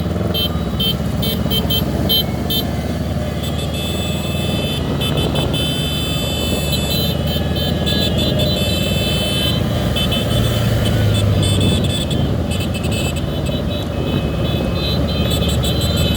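Engines of a large group of motorcycles and other vehicles riding together. Over the steady engine noise come repeated short horn toots and a slow rising-and-falling wail.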